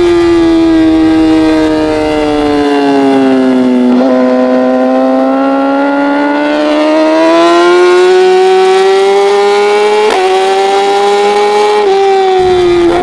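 Racing motorcycle engine held at high revs: its note sinks slowly, then climbs steadily over several seconds, with brief sharp breaks about four and ten seconds in.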